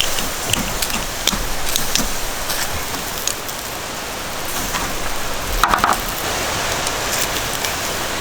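Steady rain falling, with scattered separate drops ticking close by. A brief, louder clatter comes a little past halfway.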